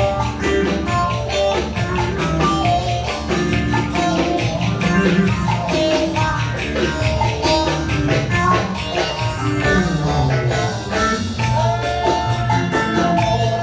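Ankara-style Turkish folk dance music in an instrumental passage: a plucked string melody over a steady, fast beat with tambourine jingles.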